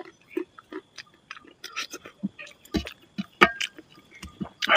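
Close-up eating sounds: irregular wet smacks and clicks of a mouth chewing rice and chicken curry eaten by hand, with louder smacks about three and a half seconds in and at the end.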